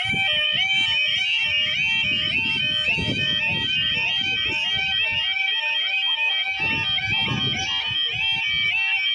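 Level crossing yodel alarm sounding its stepped, warbling two-tone warning for an approaching train, with stretches of low rumble beneath it. The watchers say the alarm's sound is getting worse.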